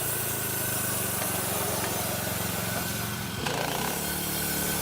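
Small gasoline engine running steadily, its note shifting briefly about three and a half seconds in.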